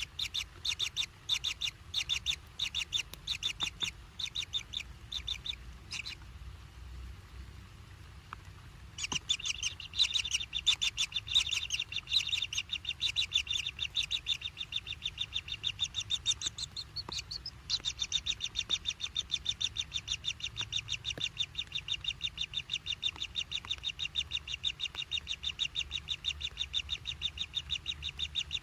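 Nestling birds' begging calls: a rapid, even string of high chirps. They stop for a few seconds early on, then start again and keep going without a break.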